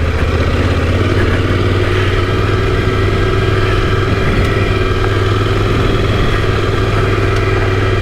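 Yamaha Ténéré 700's 689 cc parallel-twin engine running at steady, raised revs as the motorcycle rides on.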